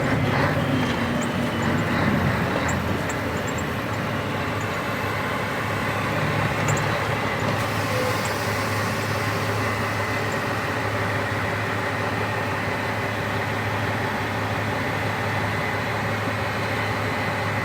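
Scania 113 truck's six-cylinder diesel engine running steadily, with an even hum and no change in pace.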